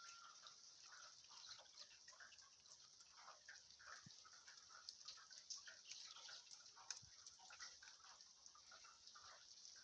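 Faint rain with a soft steady hiss and many scattered drips and taps.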